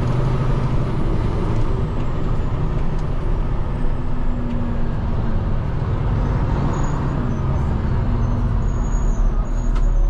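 Peterbilt 589 dump truck's diesel engine running steadily.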